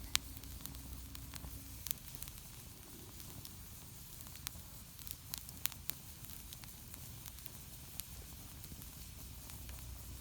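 Wood campfire burning, with scattered sharp pops and crackles over a soft steady hiss as moisture steams out of firewood that is not fully dry.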